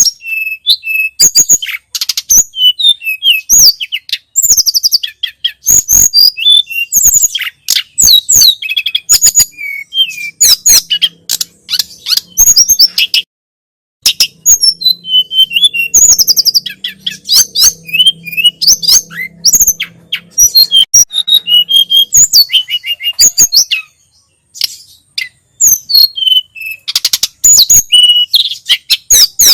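Tledekan gunung (sulingan gunung) songbird singing: a fast, continuous run of high chirps and whistled notes, broken by short pauses about halfway through and again near the end.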